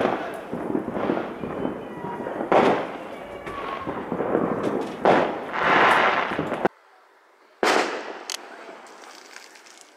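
A 144-shot firework cake firing a rapid barrage of bangs and crackle that stops abruptly about two-thirds of the way through, followed by one more sharp bang that dies away.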